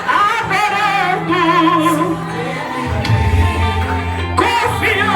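Gospel song sung live by a woman with strong vibrato over a backing band, the bass growing heavier about three seconds in.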